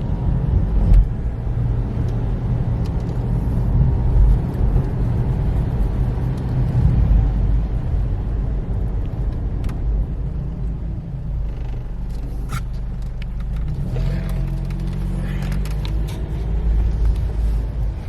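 A car running, a steady low rumble with a faint engine hum and a few light clicks in the second half.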